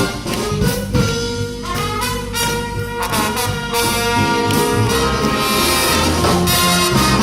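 Big band playing jazz live, with trumpets, trombones and saxophones over drums; the brass section comes in fuller about four seconds in.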